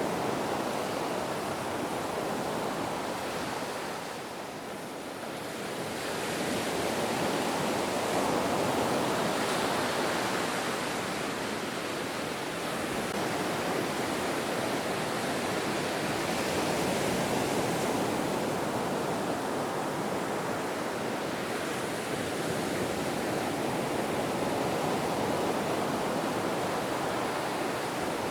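Ocean surf: a continuous wash of breaking waves that eases off about four seconds in and swells back up, rising and falling in slow surges.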